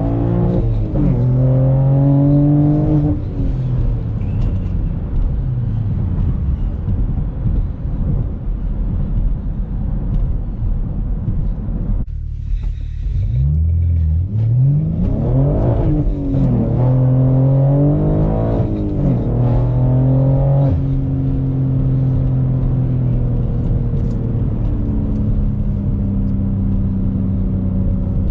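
BMW G80 M3's twin-turbo S58 inline-six running through a catless, valveless InkedCustom race exhaust, pulling hard in several gears with the pitch rising on each pull and dropping at each shift of the manual gearbox: about three seconds in, around twelve seconds in, and around twenty seconds in. It then settles to steady cruising.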